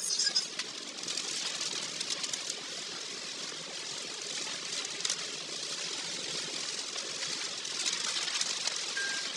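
Steady hiss of a car driving on a wet road in typhoon weather: tyre and rain noise with a faint engine rumble underneath and scattered light ticks.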